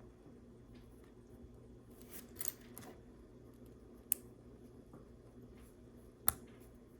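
LEGO bricks being handled and pressed together: a brief clatter of small plastic pieces about two seconds in, then two sharp single clicks, one about four seconds in and one near the end.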